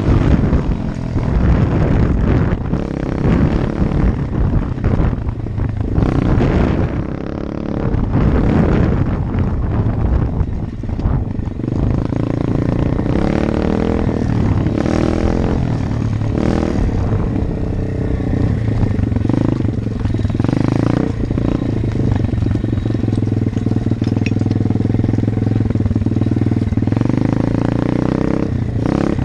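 125 cc Apollo dirt bike's single-cylinder four-stroke engine running under way. Its pitch rises and falls with rattles and knocks over the first dozen seconds, then holds a steadier note.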